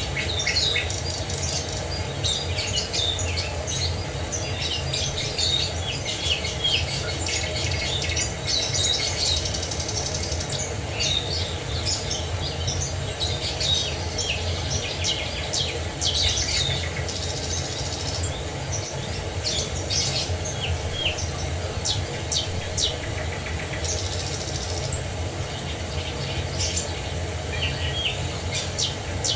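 Many songbirds chirping and singing in quick, overlapping phrases over a steady rush of falling water.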